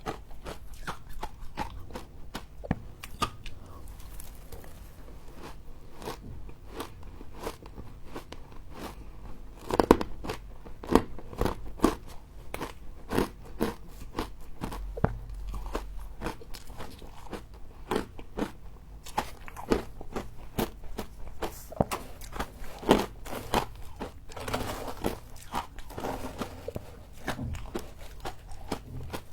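A person biting and chewing humidifier frost, heard as a dense run of sharp, close-up crunches, the loudest a little under ten seconds in.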